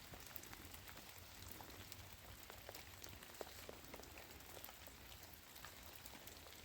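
Rain falling, heard faintly as a steady hiss with scattered drops ticking.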